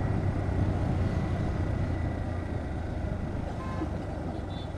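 Bajaj Pulsar NS125's single-cylinder engine running at riding speed, mixed with wind rush on the rider's microphone. A few faint short beeps sound near the end.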